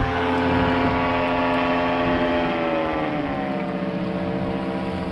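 Paramotor engine and propeller running, its pitch sliding down about halfway through as the revs fall, then holding steady at the lower speed, with wind noise underneath.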